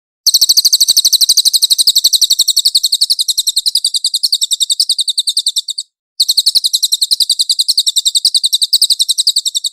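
Cililin songbird singing a fast, high, even trill of about ten notes a second. It sings two long runs: one of about five and a half seconds, then a short break, then one of about three and a half seconds.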